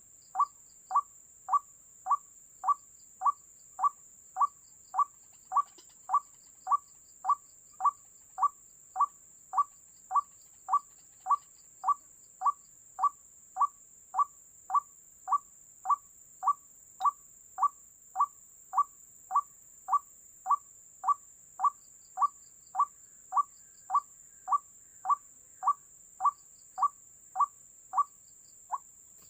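White-breasted waterhen (ruak-ruak) call: one short note repeated very evenly, about twice a second, the lure call used to draw waterhens to the snares. Faint high chirps come and go behind it.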